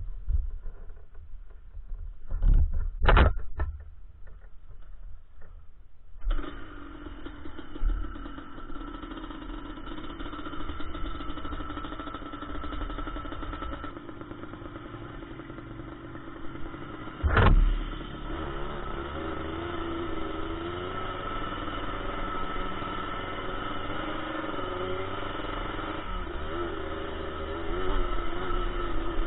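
Yamaha Blaster 200 quad's two-stroke single-cylinder engine. A few sharp knocks come first. About six seconds in the engine catches and runs steadily, with a loud thump partway through, and in the second half the revs rise and fall.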